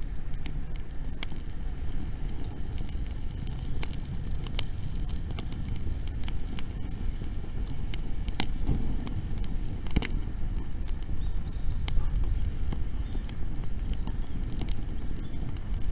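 Wood bonfire burning, its dry fuel crackling and popping in sharp, irregular snaps over a steady low rumble.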